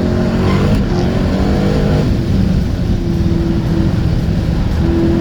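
Dodge Hellcat's supercharged V8 running hard, revving up with rising pitch over the first couple of seconds, then holding a steadier high-rpm drone.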